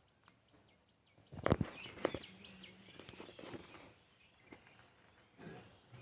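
Pet parrot making faint chirps and squeaks, with two loud knocks about a second and a half and two seconds in.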